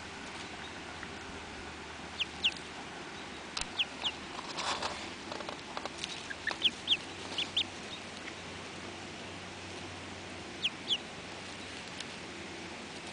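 Baby duckling and gosling peeping: short, high peeps, often in quick pairs, scattered with pauses between them.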